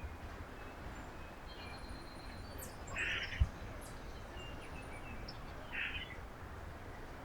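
Small birds calling at a backyard feeder: a short, rough chirp repeated about every three seconds, with fainter thin high whistles from other birds in between. A steady low rumble runs underneath, and a single soft knock comes about three and a half seconds in.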